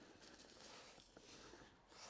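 Near silence: faint background noise with a few soft ticks.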